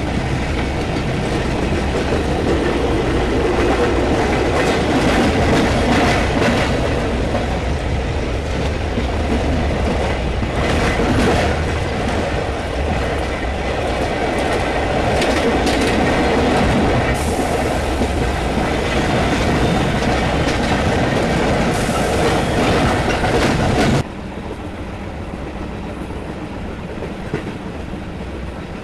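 Train running on rails at speed, its wheels clattering over the rail joints with a steady rumble. About 24 seconds in it drops abruptly to a much quieter rumble.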